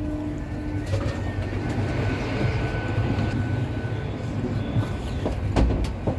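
Great Western Railway Class 802 train running, heard from inside the carriage: a steady low rumble with a few sharp clicks and knocks from the wheels on the track, about a second in and several more near the end.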